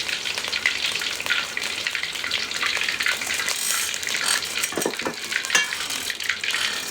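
Food frying in hot oil in a pan, a steady sizzle with fine crackling.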